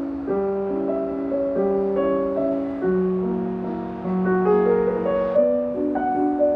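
Soft, slow background piano music, a gentle melody over sustained chords.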